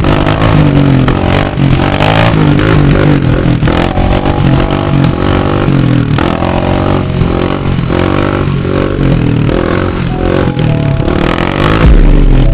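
Off-road motor vehicle engines revving up and down repeatedly, with the pitch rising and falling.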